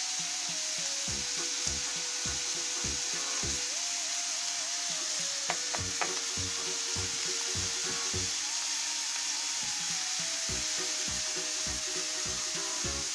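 Chopped onion and grated carrot sizzling steadily in hot sunflower oil in a stainless steel frying pan. A spatula stirs them about halfway through. Quiet background music plays underneath.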